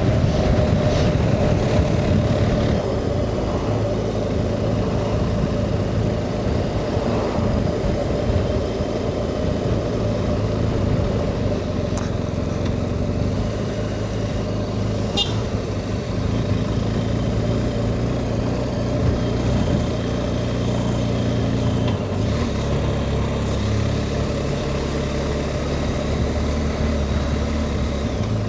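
BMW R 1250 GS Rallye's boxer-twin engine running steadily while the motorcycle is under way. The engine note changes about three-quarters of the way through.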